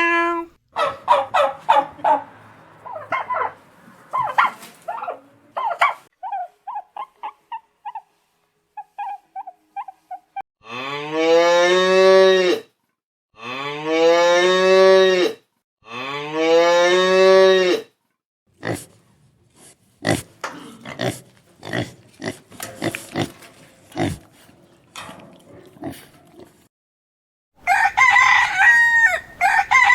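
A series of different animal calls one after another: short calls at first, then three long drawn-out calls, then a run of short sharp clicking sounds, and near the end a rooster starts crowing.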